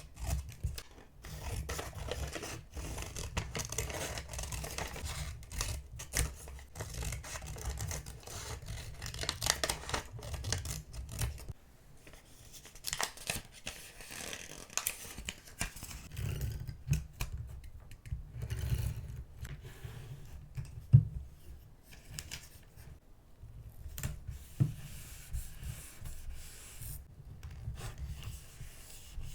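Close-up paper-craft sounds: paper die-cuts being handled, rubbed and cut. Scattered small taps run through it, with one sharper tap about two-thirds of the way through.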